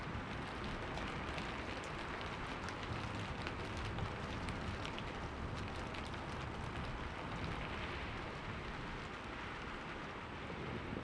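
Steady rain falling: an even hiss of rain on surfaces, with scattered sharper drop ticks.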